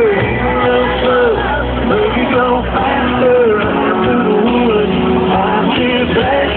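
Live country band playing loud, heard from the audience through a phone's microphone. A sliding, bending melody line runs over guitar and bass.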